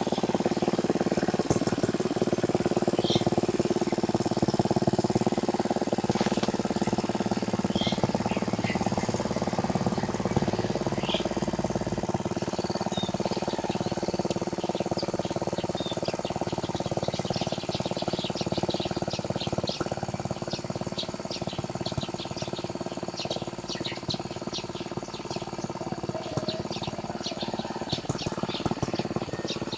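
Small engine of a hand tractor plowing a wet rice paddy, running steadily and slowly growing quieter, while birds chirp and call over it, more often in the second half.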